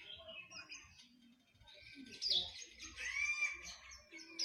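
Songbirds chirping and singing: quick high chirps throughout, a louder chirp about two seconds in, then a short whistled note that rises and falls.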